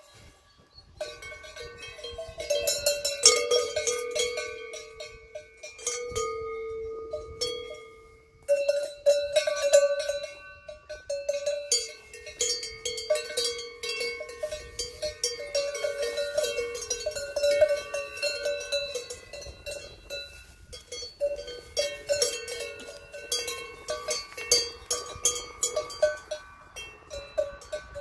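Several cowbells on grazing cows clanking irregularly, overlapping clangs of different pitches, with a short lull about eight seconds in.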